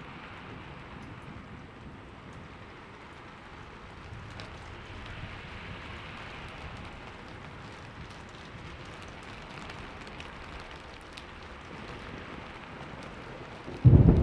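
Steady rain hissing, with scattered drops ticking. Right at the end a loud clap of thunder breaks in suddenly.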